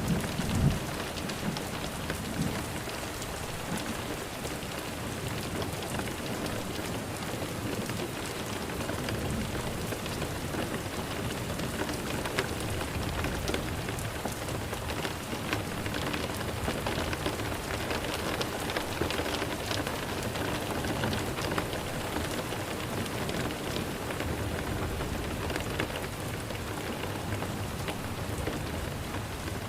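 Steady rain falling on a surface: an even hiss with scattered ticks of individual drops. There is a brief low rumble about half a second in.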